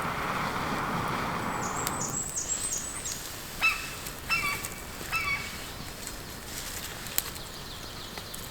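Wild forest birds calling: a quick run of high, short notes, then three short calls less than a second apart. These follow a brief rush of noise in the first two seconds.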